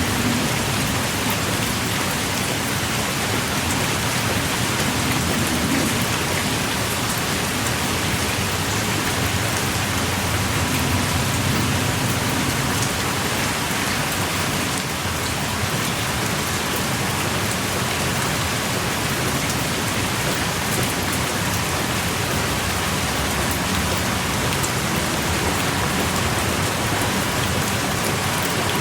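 Heavy rain pouring steadily, a dense even patter of drops landing on the ground and rock outside a small cave.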